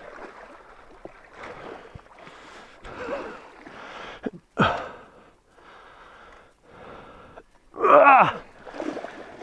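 Water splashing and sloshing in a string of short bursts, mixed with heavy breathing, and a short loud voice about eight seconds in.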